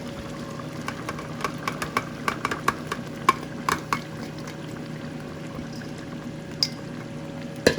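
Ingredients being tipped into a cooking pot and moved about: a run of irregular clicks and clinks for a few seconds, then a lone click and a sharp knock near the end, over a steady hum.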